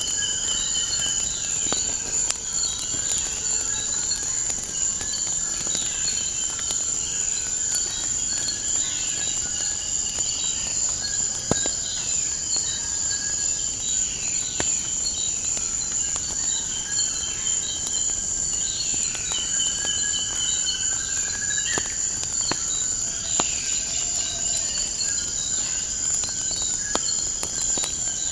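A steady high trill of crickets, with birds chirping in short falling notes over it and a few sharp crackles and pops from a wood fire.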